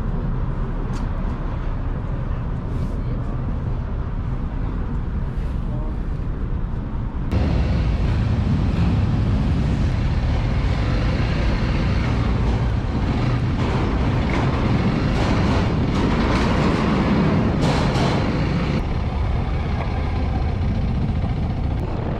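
Steady vehicle noise: a low engine rumble with rushing air, which steps up abruptly and gets louder and hissier about seven seconds in.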